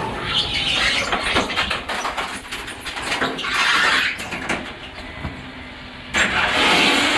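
Refuse truck at work: three loud bursts of hiss, the last cutting in suddenly near the end, with clanks and knocks in between over the running engine.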